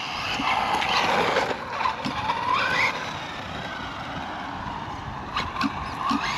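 Electric RC rally car running over sand and dirt: a rush of tyre and drivetrain noise, then the motor whine rises in pitch about two to three seconds in as it speeds up.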